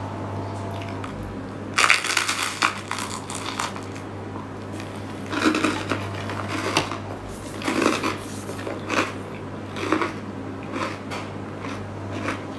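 Close-up crunching of oven-toasted bread topped with anchovies and melted cheese being bitten and chewed: a loud crunch about two seconds in, then crunchy chewing in bursts about once a second.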